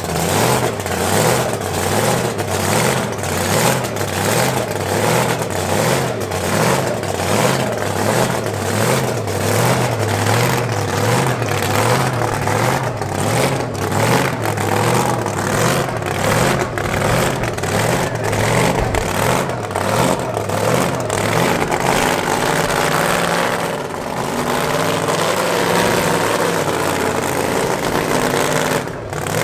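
Supercharged drag-racing engine idling with a lumpy, loping beat of about three pulses a second, loud and steady, with a short dip in level a few seconds before the end.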